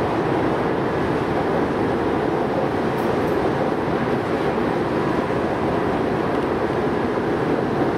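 Tobu Railway express train running at speed, heard from inside the passenger car: a steady, even rumble.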